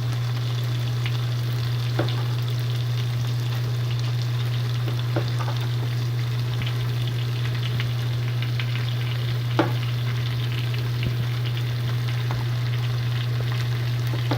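Chopped onion and garlic sizzling as they fry in a pan, with a steady hiss, a constant low hum underneath and a few sharp knocks of a utensil against the pan, the loudest about ten seconds in.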